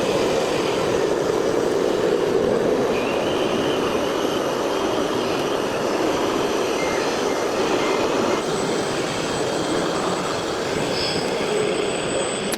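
Steady mechanical running noise with a faint high whine that comes in about three seconds in.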